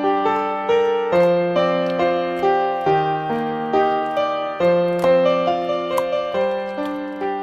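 Soft background music played on piano or electric piano, a gentle melody over chords that change about every couple of seconds, each note struck and fading.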